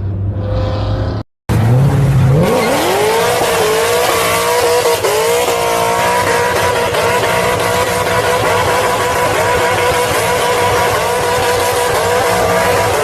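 Ford Mustang GT V8 exhaust: a lower engine note cuts off briefly about a second in. Then the engine revs up and is held at a steady high rpm for about ten seconds over a loud hiss.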